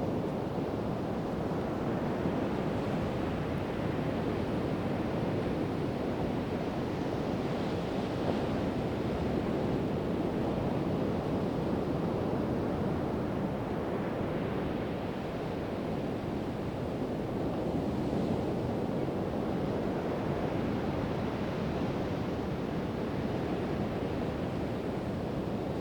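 Pacific Ocean surf washing onto a sandy beach: a continuous rush of breaking waves that swells gently every few seconds.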